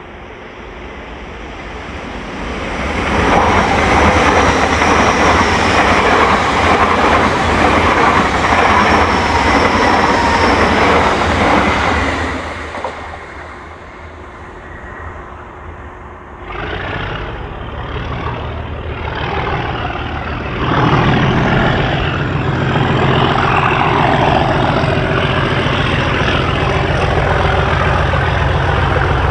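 Class 37 diesel locomotive 37421 grinding to a halt, with brakes and wheels squealing high for about the first twelve seconds. Its English Electric V12 diesel then runs low before firing up, growing louder about 17 seconds in and again with a steady deep engine note from about 21 seconds.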